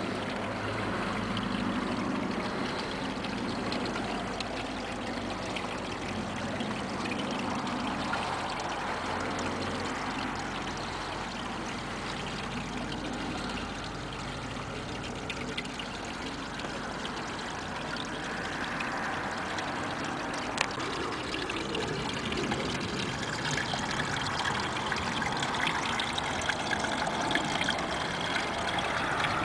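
A small rain-fed waterfall pouring off a hillside: a steady rush of falling and running water. A single sharp click sounds about two-thirds of the way through.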